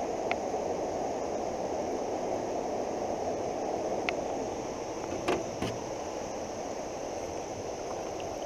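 Steady rush of fast-flowing floodwater in a creek, with two brief knocks a little past halfway and a couple of faint high ticks.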